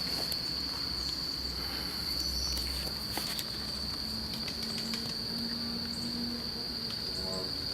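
Steady high-pitched chorus of insects, a continuous shrill trill that holds one pitch, with scattered faint clicks and rustles.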